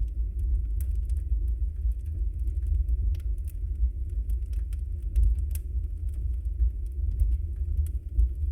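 Wood fire burning in a fireplace: a steady deep low rumble with frequent small, irregular crackles and pops from the burning logs.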